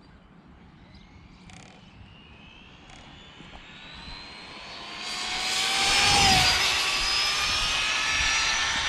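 Brushless electric motor of an Arrma Limitless RC speed-run car whining as it accelerates. Several tones climb steadily in pitch and grow loud about five seconds in, then hold as a high, steady whine.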